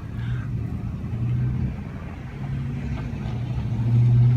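A motor running with a low steady hum, growing louder near the end.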